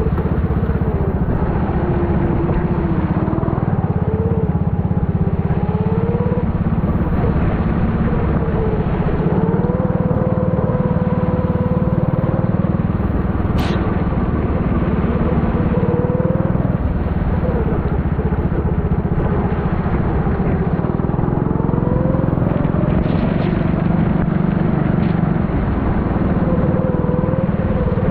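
Four-stroke Honda kart engine running hard, its pitch rising and falling every few seconds as the driver accelerates out of corners and lifts into them, over a constant heavy rumble. One sharp click about halfway through.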